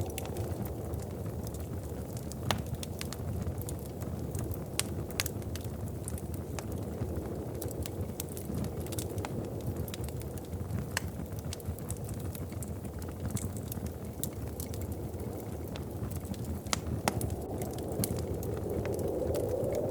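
Wood fire crackling in a fireplace, with irregular sharp pops over a steady low rumble of the flames; the rumble swells a little near the end, like a gust of wind.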